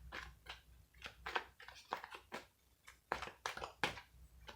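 Tarot cards being handled and shuffled: a string of soft, irregular clicks and rustles.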